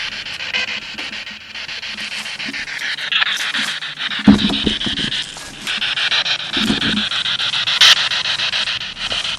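Radio scanner sweeping through stations: a steady, rapidly chopped hiss of static. Brief low fragments come through about four and about six and a half seconds in, and there is a sharp click near eight seconds.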